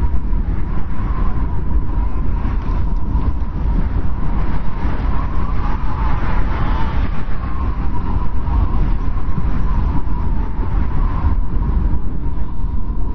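Blizzard wind blowing hard and steadily: a deep rumble with a thin, wavering howl above it that swells about halfway through.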